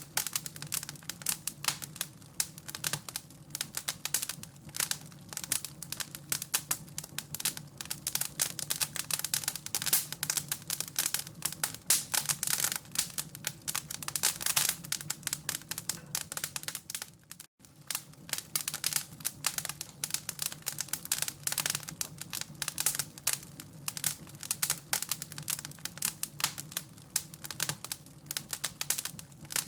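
Wood fire crackling steadily, with dense irregular pops and snaps over a low steady rumble. The sound cuts out for an instant about 17 seconds in.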